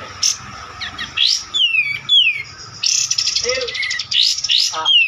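Birds chirping and singing, with repeated high whistled notes that slide downward in pitch and quick trills.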